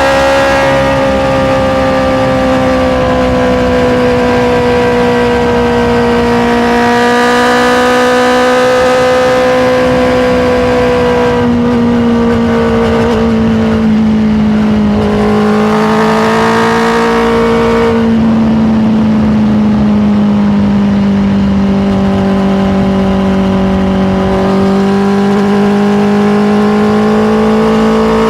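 Honda CBR650R's inline-four engine running under way at steady cruising revs, its pitch drifting gently and stepping down slightly a few times in the middle as the throttle and revs change.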